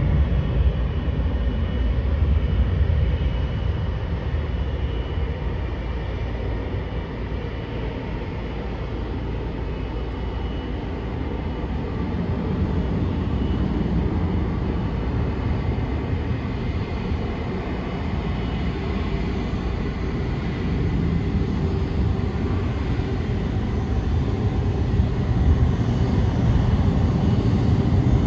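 Airbus A330 jet engines running: a steady low rumble with a faint whine, easing slightly in the first third and growing louder toward the end.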